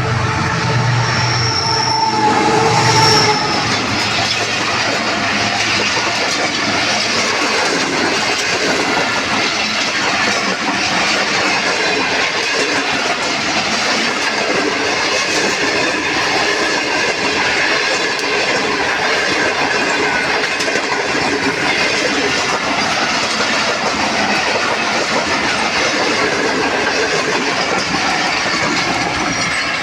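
A diesel-hauled express passenger train rushes past at speed: a loud, steady rush of wheels on rails and passing coaches. The tail of the locomotive's horn sounds through the first few seconds, then stops.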